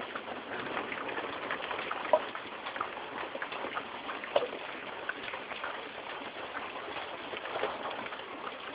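Rain falling steadily, a dense patter of drops with scattered sharper drip ticks, two of them a little louder about two and four and a half seconds in.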